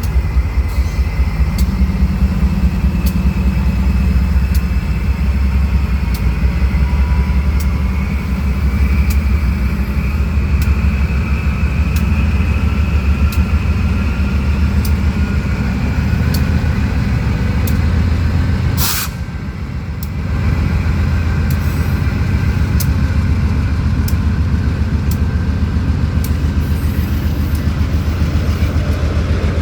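A loaded gravel freight train rolling past: a steady heavy rumble of wheels on rail, with repeated sharp clicks as the wheels cross rail joints and a thin wheel squeal. About two-thirds of the way through there is a brief sharp burst, and the rumble eases for a second before it returns.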